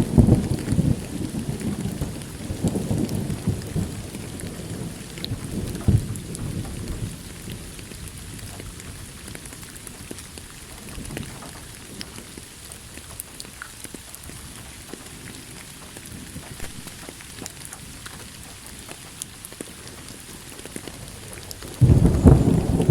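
Steady rain with scattered drops, and thunder: a low rumble that fades over the first several seconds, then a new loud peal that starts shortly before the end.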